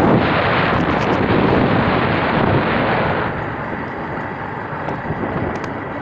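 Wind rushing over the microphone, with the steady road noise of a moving vehicle. It eases a little about three seconds in.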